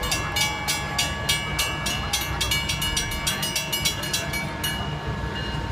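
Long Island Rail Road diesel train pulling out, its engine rumbling low, with a bell ringing rapidly, several strikes a second, that stops about three-quarters of the way through.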